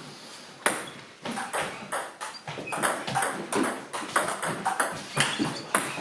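Table tennis ball being hit back and forth in a rally: sharp, high clicks of ball on bat and table, about three a second, starting about half a second in.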